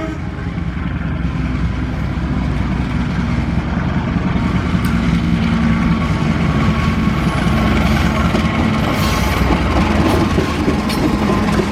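Train passing close by: a loud, steady rumble of the locomotive and cars on the rails, with a few scattered clicks.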